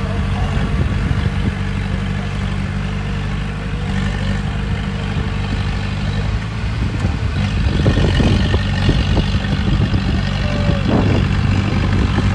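Diesel engine of heavy earthmoving machinery running steadily under a low drone, with irregular clanks and rattles joining in over the second half.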